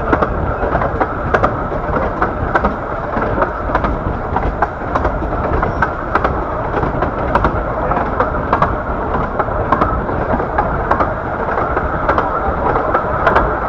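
A 15-inch gauge miniature railway train running along the line: a steady rolling rumble with frequent irregular clicks and knocks from the wheels on the track.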